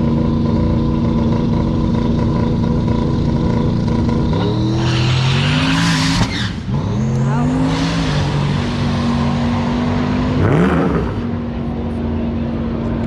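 Drag-racing car's engine running steadily, then revving hard from about four seconds in, rising in pitch. It dips briefly about six seconds in, as at a gear change, then climbs again before settling, with one more short rising rev near the end.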